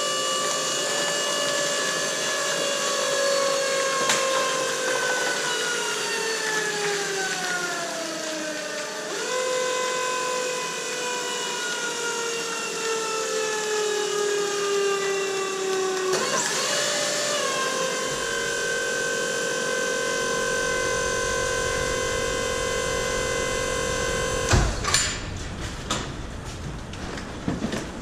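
Mini baler's motor whining while it compacts plastic bottles, its pitch sinking slowly as the load builds, then jumping back up. This happens twice; the third time the pitch holds steady. It stops near the end with a clunk.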